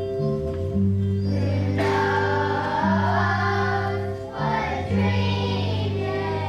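Children's choir singing over steady, held accompaniment chords, the voices coming in about a second in.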